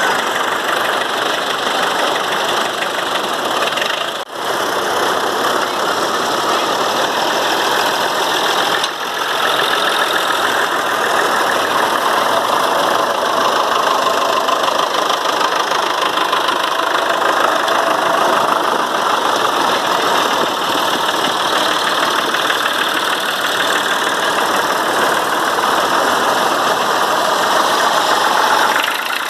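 Tractor engine running steadily, with two brief drops in level about four and nine seconds in.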